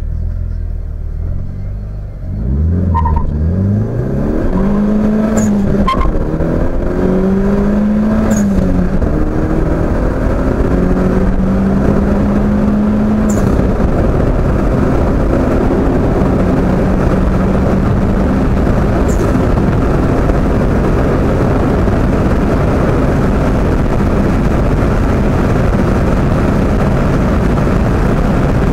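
Turbocharged car engine at full throttle, heard from inside the cabin, accelerating hard through the gears. Its pitch rises and drops back at four gear changes in the first half, and each change has a short sharp burst. After that it holds high revs at high speed under a steady, loud rush of road and wind noise.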